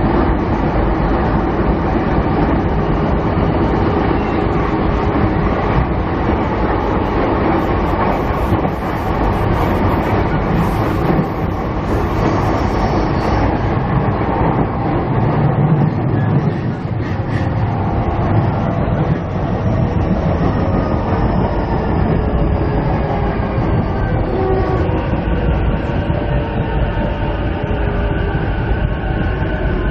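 Running noise heard from inside a JR 209 series 500 electric commuter car: a steady rumble of wheels on rail with some clickety-clack. In the second half the traction motor whine falls in pitch as the train slows.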